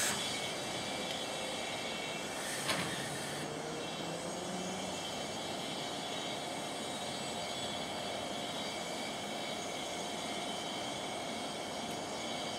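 A standing container freight train: a short hiss of compressed air with a click about three seconds in, typical of air brakes, over a steady even roar. A faint steady hum comes in about halfway.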